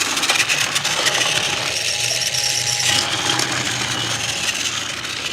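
Motorized TrackMaster toy train running on plastic track: a steady small-motor whir under a dense, clicking rattle of plastic wheels and cars.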